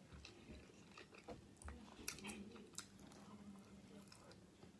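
Faint chewing with scattered soft mouth clicks: a person eating a soft burrito of rice, chicken and beans.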